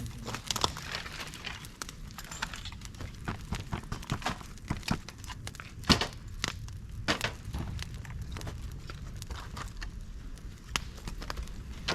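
Campfire of dry dead bamboo and twigs burning in a fire pit: irregular sharp crackles and snaps, the loudest pop about six seconds in.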